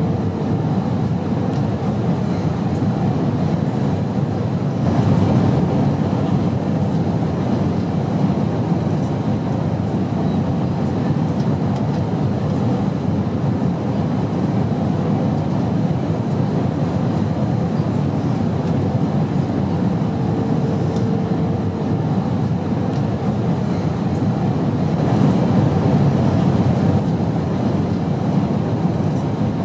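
Airplane engine noise: a steady, even low drone with slight swells, and a faint steady tone that comes in briefly about two-thirds of the way through.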